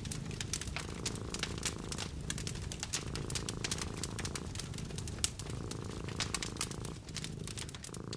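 Cat purring steadily, with a wood fire crackling and popping in many sharp, irregular clicks.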